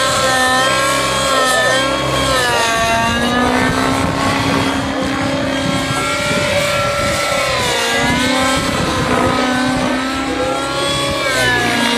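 Nitro-powered Synergy N9 RC helicopter in flight, its two-stroke glow engine running at high speed with a buzzing note that sags and climbs back several times as the load changes through 3D manoeuvres.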